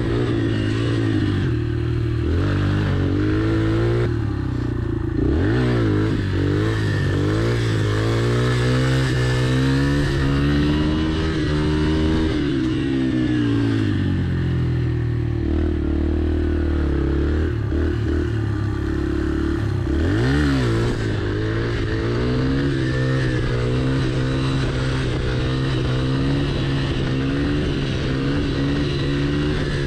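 Yamaha TT-R pit bike's small four-stroke single-cylinder engine, revving up and dropping off again and again with the throttle as it is ridden around the track, then holding a steadier pitch over the last several seconds.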